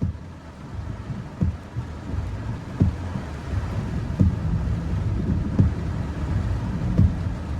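Heavy rain on a car during a severe thunderstorm, over a steady low rumble, with a windshield wiper thumping at the end of each sweep about every second and a half.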